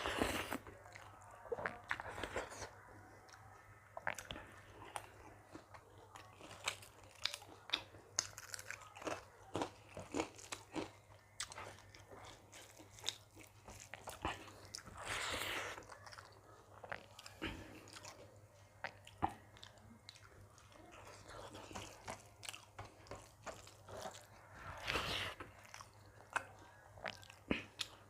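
Close-up chewing and biting of a meal of dal, rice and vegetable dishes: many short, sharp crunches and wet mouth clicks at an irregular pace, with a couple of longer, noisier moments about fifteen and twenty-five seconds in.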